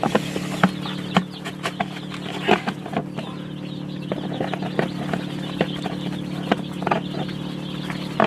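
Many young Aseel chicks peeping over one another in a brooder, with a few sharp knocks and a steady low hum underneath.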